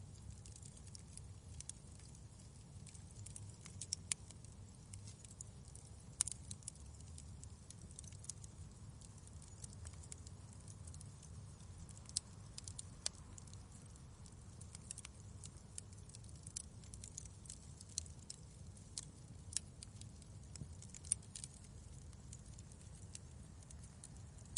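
Wood fire crackling in a fireplace: irregular sharp pops and snaps, several of them louder, over a steady low rumble.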